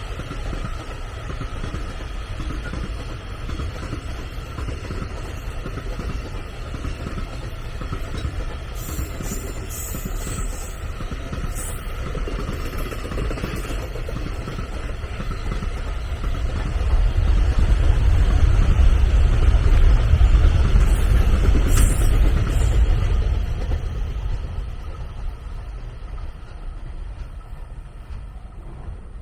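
A train running past on the line: a steady low rumble of wheels on rail that swells to its loudest a little past the middle and then fades away, with a few sharp high-pitched clicks along the way.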